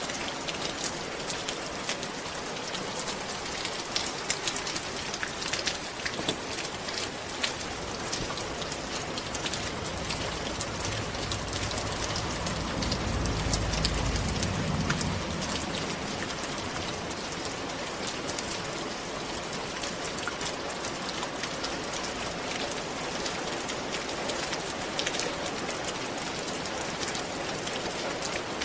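Steady rain falling on a roof, with many individual drops ticking through the patter. About halfway through, a low rumble swells and fades over a few seconds.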